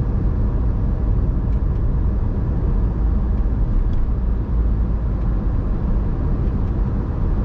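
A car being driven: a steady low rumble of engine and road noise with no distinct events.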